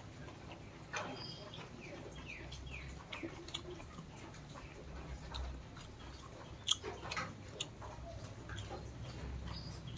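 Quiet chewing and lip-smacking of chicken biryani eaten by hand, with scattered small clicks. A few short, high bird chirps sound in the background between about one and three seconds in.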